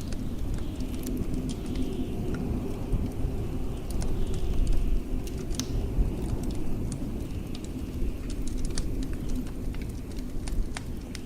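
Blizzard wind, a steady low rumble with faint rising and falling whistles, under a wood fire crackling with scattered sharp pops.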